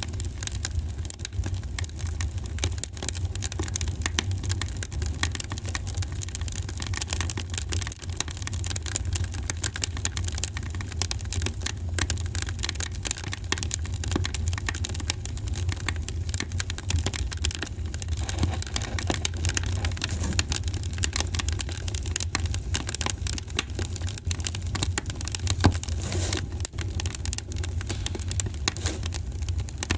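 Wood fire crackling, with a dense run of small pops and snaps over a low, steady rumble, and one louder pop late on.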